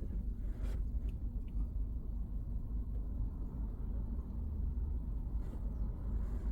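Steady low rumble of a car's engine and tyres heard inside the cabin while driving, with a few faint ticks.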